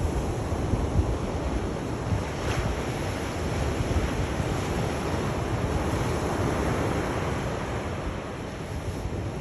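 Sea waves washing on a shore: a steady rushing surf noise with a low wind rumble underneath.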